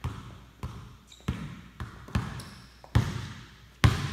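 Basketball being dribbled on a hardwood gym floor: about six or seven bounces at a steady pace of roughly one and a half a second, each ringing on in the hall's echo. The bounce just before the end is the loudest.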